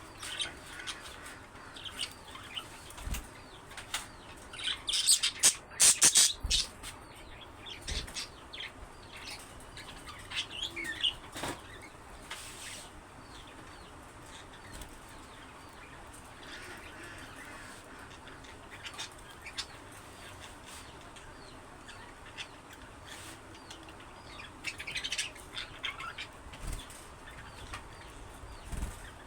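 Budgerigars chirping in short high calls, with bursts of wing flapping and scattered clicks; busiest about five to seven seconds in and again near the end.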